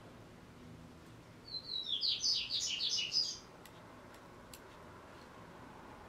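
A small songbird sings one quick, two-second phrase of rapid descending chirps about one and a half seconds in.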